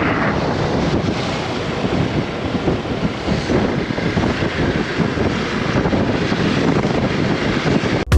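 Wind buffeting the microphone: a loud, steady rushing noise with irregular low rumbles, cut off suddenly at the end.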